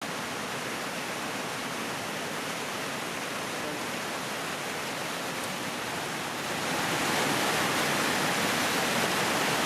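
Rushing water, a steady noise with no distinct events that grows louder about six and a half seconds in.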